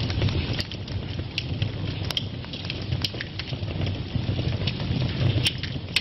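Wood fire burning in a fireplace: a steady low rumble of flames with scattered sharp crackles and pops, the loudest pops near the end.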